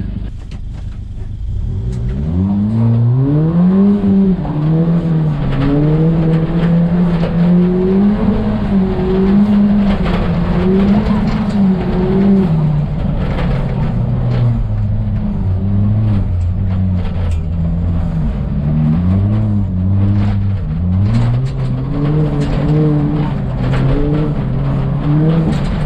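Rally car engine under hard driving, starting about two seconds in and then rising and falling in pitch again and again as it accelerates, lifts and shifts through a rallycross run.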